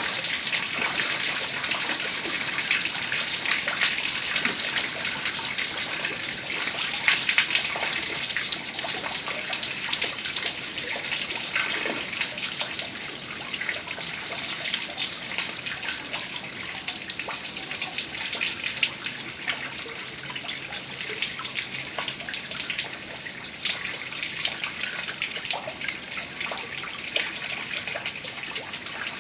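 Heavy rain falling steadily: a dense patter of drops over a continuous hiss of water, easing slightly in the second half.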